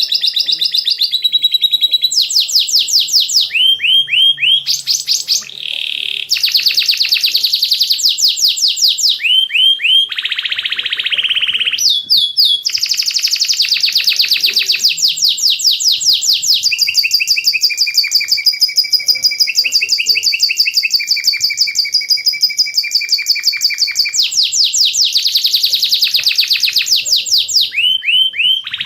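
Young munias chirping nonstop in fast runs of short, high-pitched notes, many to the second, with only a few brief breaks.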